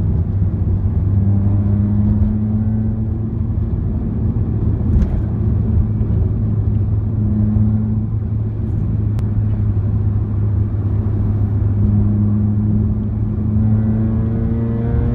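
Honda VTEC car engine droning steadily from inside the cabin while driving, with road noise underneath; near the end its pitch starts to rise as the car accelerates.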